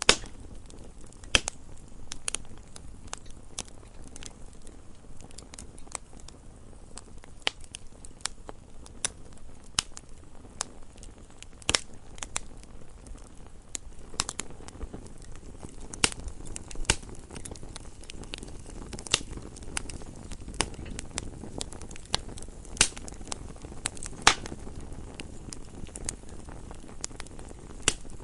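Wood fire burning in a fireplace: irregular sharp crackles and pops, with a louder pop every few seconds, over a low steady rush of the flames.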